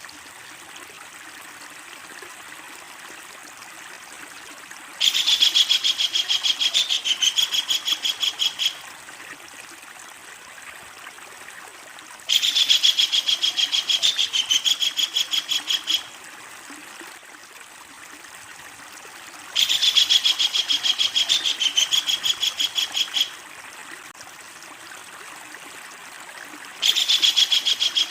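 Kingfisher (tengkek udang) giving its long, loud rattling call, a fast run of sharp high notes lasting about four seconds, four times at even intervals of about seven seconds, the last starting near the end. Between calls there is a steady soft hiss.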